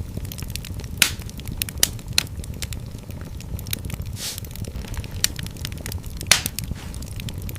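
Fire in a fireplace crackling: frequent sharp pops and snaps over a steady low rumble of flame, with louder pops about a second in, near two seconds and past six seconds, and a brief hiss around four seconds in.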